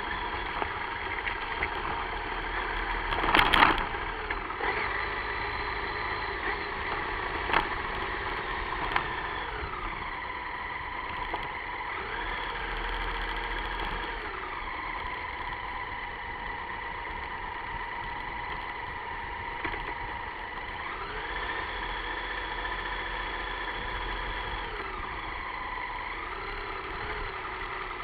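A vehicle engine running steadily, its pitch stepping up and down now and then. There is a loud noisy burst about three and a half seconds in and a couple of sharp clicks a few seconds later.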